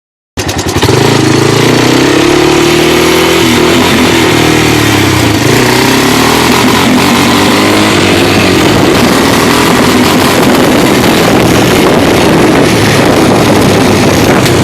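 Small off-road vehicle engine running under way, its pitch rising and falling with the throttle. It cuts in abruptly about half a second in.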